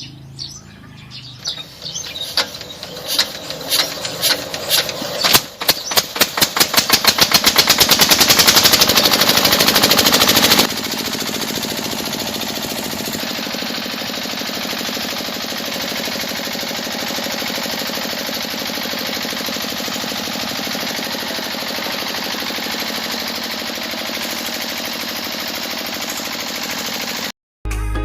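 Miniature model diesel engine starting up: separate firing pops that come faster and louder for about ten seconds, then a steady even running noise that stops abruptly just before the end.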